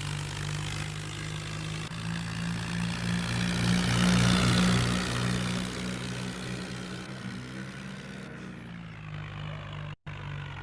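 Tractor engine running steadily, growing louder for a few seconds in the middle and then easing off, with a brief cut-out near the end.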